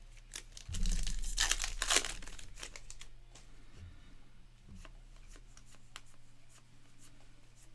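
A trading-card pack wrapper torn open about a second in, then light taps and rustles of cards being handled.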